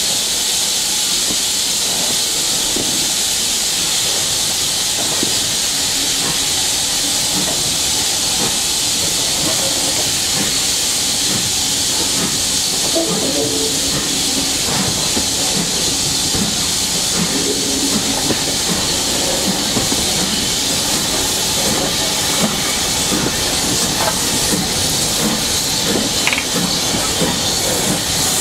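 Steam locomotive hissing steam steadily, with scattered light clicks and knocks.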